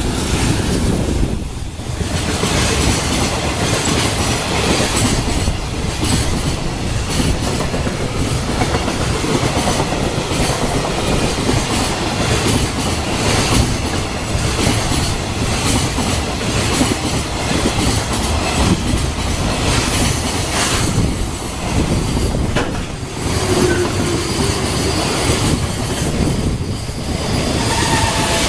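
Container freight train hauled by an EF210 electric locomotive running past, its wagon wheels clattering over the rail joints in a steady run of clicks.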